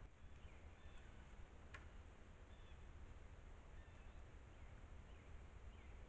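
Near silence: a few faint, short, high chirps of distant birds over a low steady rumble, with one sharp click about two seconds in.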